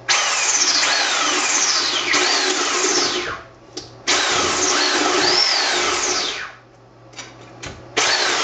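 Handheld electric cutting tool run in three bursts as its blade cuts through a raw turkey, the motor's pitch sliding down and back up under load.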